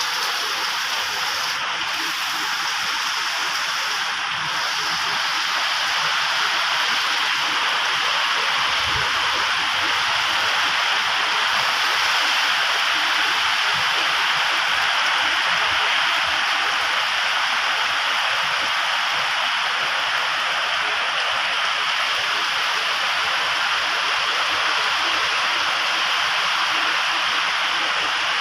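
Heavy tropical rain pouring down, a steady, dense hiss with no let-up.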